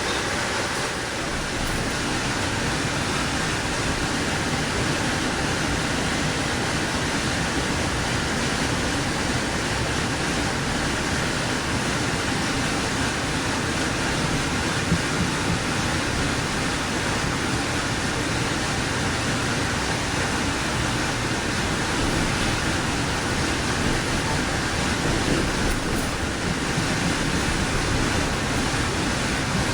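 Steady, even rushing noise inside an Amtrak passenger rail car, with no distinct knocks or tones.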